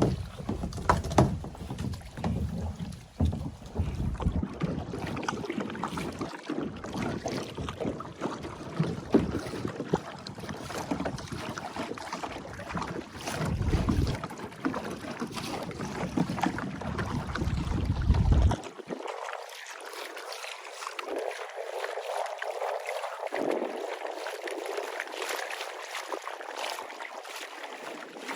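Kayak paddling on open water: paddle splashes and dripping water, with wind buffeting the microphone. About eighteen seconds in, the low rumble of the wind cuts off suddenly, leaving the lighter splashing and water noise.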